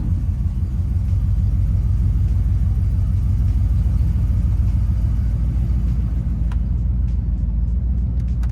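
Ford Bronco's engine running steadily with a low, even rumble while the truck is tried in gear; its automatic transmission is stuck in second gear.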